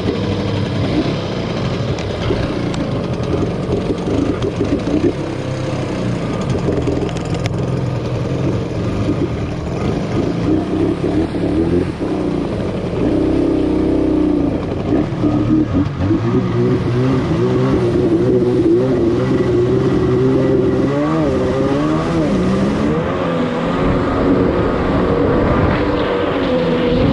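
Kawasaki X2 jet ski's 650 cc two-stroke twin running, its pitch wavering with the throttle and swinging up and down a few times in the later part.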